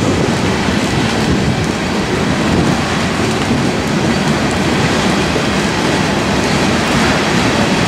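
Covered hopper cars of a freight grain train rolling steadily past, an even rumble and rattle of steel wheels on the rails.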